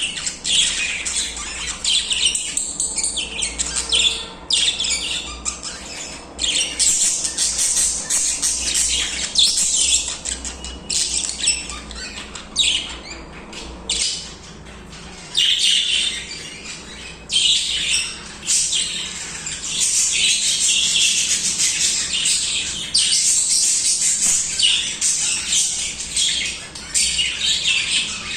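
Pet budgerigars (budgies) chattering and warbling continuously, a dense stream of high chirps and squawks with only brief pauses.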